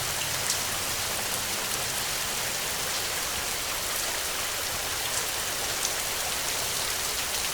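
Heavy rain falling steadily, an even hiss with faint individual drops ticking through it.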